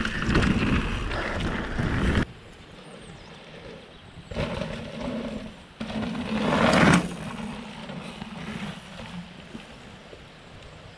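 Mountain bike descending a trail: wind on the helmet-camera microphone and tyres rumbling over the ground. It cuts off abruptly about two seconds in; the rest is much quieter, with a faint low hum and a brief louder rush between about six and seven seconds.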